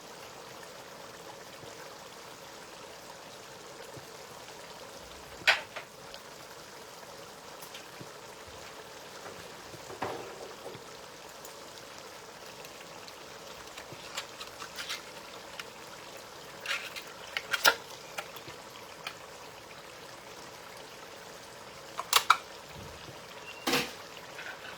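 A pot of spinach stew simmering faintly and steadily, with a few sharp clicks and knocks of utensils against the pot as mackerel and sardine are added.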